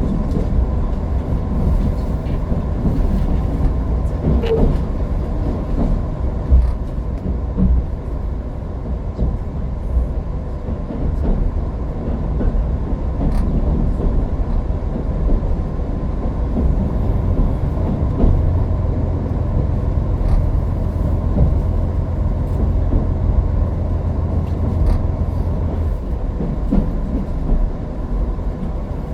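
Diesel limited express train running at speed, heard from inside the passenger car: a steady low rumble with scattered clicks from the wheels and track.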